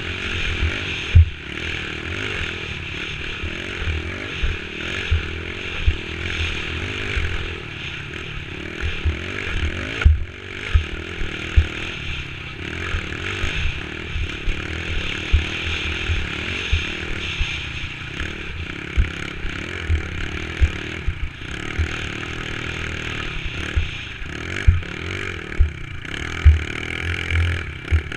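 Dirt bike engine running steadily while riding, with frequent short thumps and clatter throughout.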